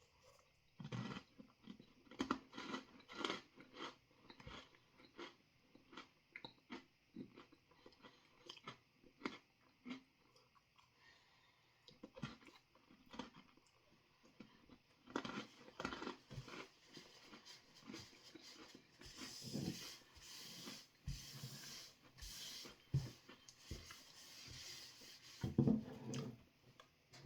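Close-up chewing of crunchy freeze-dried ice cream sandwich, with irregular crunching clicks. In the second half it turns louder and hissier.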